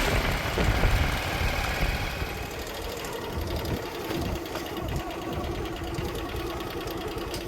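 Diesel engine of a backhoe or tractor running steadily, a little louder in the first second or two.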